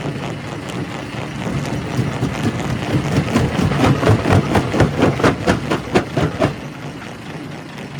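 Quarry primary rock crusher running under a steady heavy mechanical noise. From about two seconds in, a quick run of sharp cracks and knocks, about three or four a second, grows loud and stops about six and a half seconds in: rock being broken in the crusher.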